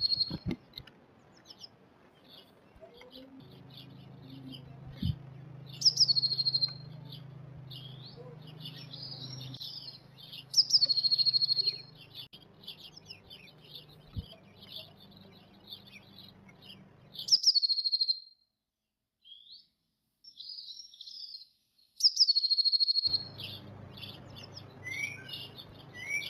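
Blue tit singing: four times, a thin high note slides down into a short held trill, with softer quick chirps in between.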